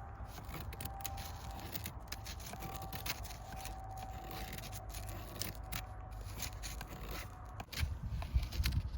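Scattered clicks and scrapes of things being handled, over a steady low rumble, with a faint steady tone through most of it.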